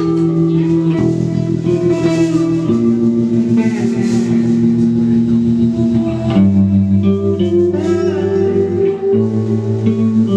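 Instrumental post-rock played live on electric guitar and electric bass: long held bass notes that change every few seconds under sustained, ringing guitar lines.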